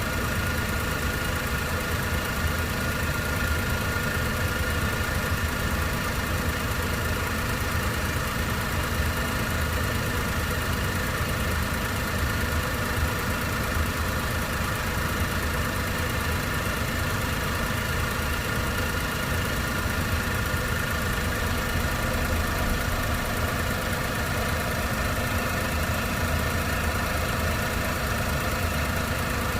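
Honda Vamos kei van's engine idling steadily with the air conditioning switched on, as it is run while the AC system is charged with refrigerant gas. A few thin, steady whining tones sit over the idle throughout.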